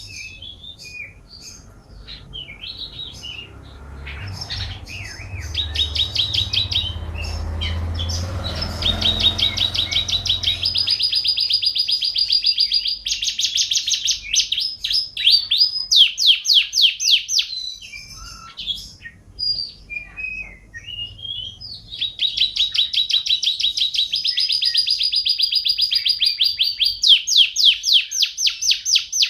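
Domestic canary singing: long, fast trills of rapidly repeated notes broken by short pauses, with scattered chirps between the phrases.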